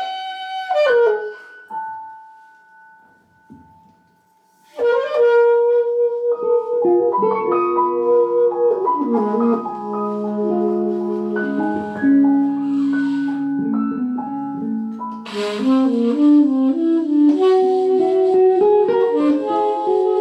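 Instrumental band music: a wind instrument plays a few long held notes, then about five seconds in a fuller ensemble comes in with sustained chords and moving lines.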